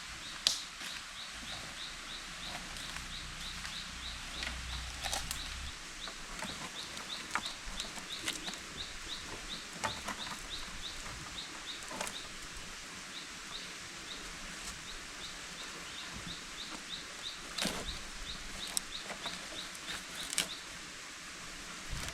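Forest ambience: a short high chirp repeated about three times a second, pausing briefly about halfway, over a steady hiss, with scattered sharp clicks and knocks, the loudest one right at the start.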